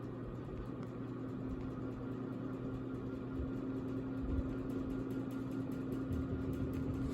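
CEC Georgian ceiling fan running, its motor giving a steady hum over a low rumble, the hum coming in under a second in. This unit runs noticeably loud for the model.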